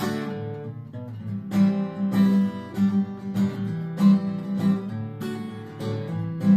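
Multiscale orchestra-model cutaway acoustic guitar (660–644 mm fanned scale) being played. One chord rings out and fades over about a second, then a run of rhythmic strummed chords follows.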